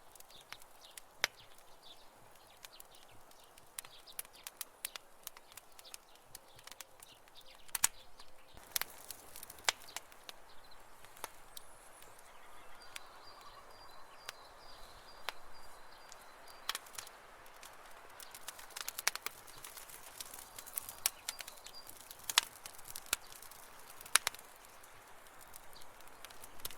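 Campfire burning, crackling with irregular sharp pops of varying loudness over a soft hiss. A faint high-pitched trill comes and goes in the middle stretch.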